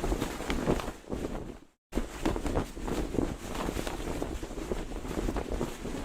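Cloth flag flapping in the wind: a rough rustle broken by irregular sharp snaps of the fabric, with wind buffeting the microphone. The sound cuts out to silence for a moment just under two seconds in, then resumes.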